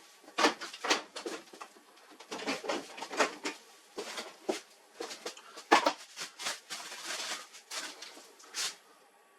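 Irregular clicks, knocks and scraping of plastic and metal parts being handled, in bursts over several seconds, as a laser printer is taken apart to replace its fuser drive assembly.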